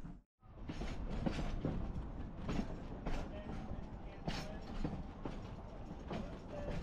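Narrow-gauge train rolling along the track: a steady rumble with sharp wheel clicks over the rail joints about twice a second, at an uneven rhythm. The sound drops out for a moment just after the start.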